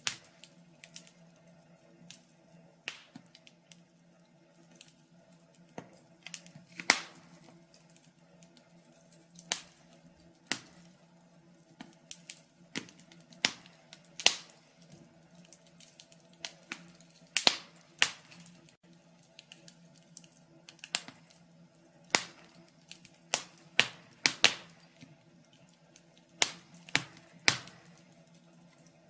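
Log fire crackling: irregular sharp snaps and pops from the burning wood, some much louder than others and unevenly spaced, over a faint steady hum.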